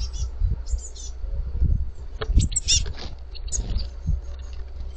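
Fledgling blue tits calling: high, thin chirps in quick clusters, repeated every second or so, over a low rumble with a few dull thumps.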